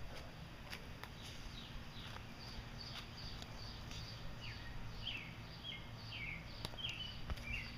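Small birds chirping: a series of short, falling chirps, thickest in the second half, over a low rumble with a few faint clicks.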